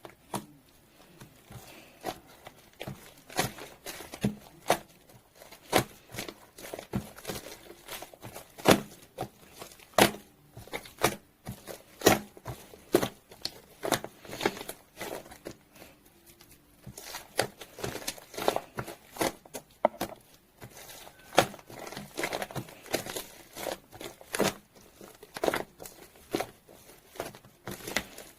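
Green foam slime being squished and pressed by hand: an irregular run of sticky pops and crackles, several a second, as trapped air bubbles burst.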